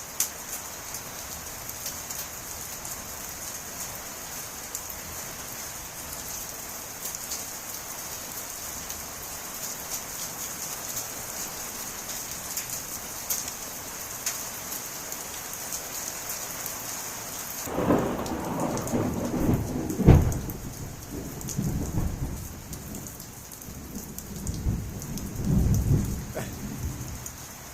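Heavy rain with small hail pattering down steadily. About 18 s in, thunder breaks in with a sharp crack near 20 s, then rumbles on in waves for several seconds. Counted at only about two seconds after the flash, the strike was about two miles away.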